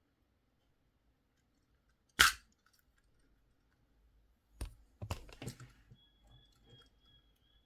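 Hard plastic toy parts of a Hailfire Droid figure being handled, with one loud, sharp snap about two seconds in and then a run of smaller clicks and rattles.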